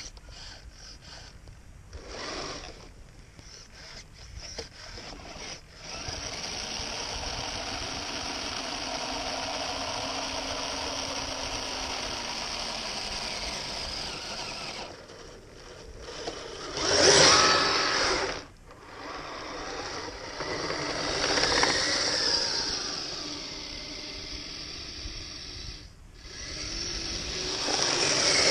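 Kyosho Blizzard RC snowcat running on its metal tracks: the electric motor and drivetrain whir in several runs of a few seconds each, with brief stops between them. The loudest surge comes a little past halfway.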